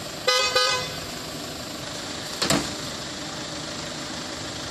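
Car engine idling steadily. About a third of a second in comes a short, loud two-note pitched sound, and about two and a half seconds in a single sharp, loud sound.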